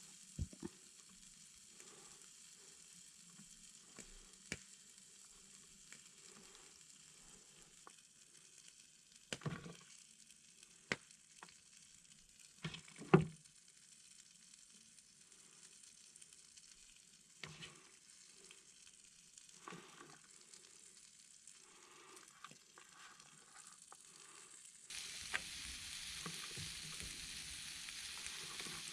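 Food sizzling in a frying pan over a campfire, a steady faint hiss broken by scattered sharp clicks and knocks, the loudest about halfway through. The sizzle turns suddenly louder near the end.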